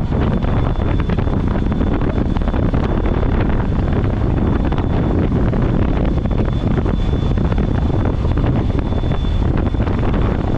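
Steady wind rush buffeting the microphone while riding a Yamaha R15 V3 motorcycle at speed, with a faint steady high-pitched whine above it.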